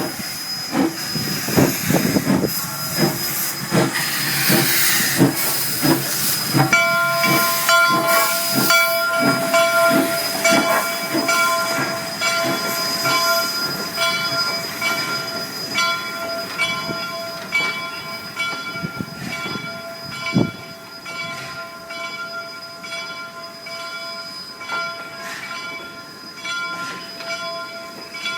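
Steam locomotive #136, a 4-4-0, moving off slowly: repeated exhaust chuffs with a burst of steam hiss. About six seconds in, a steady metallic squeal of several pitches joins in and carries on under the fading chuffs.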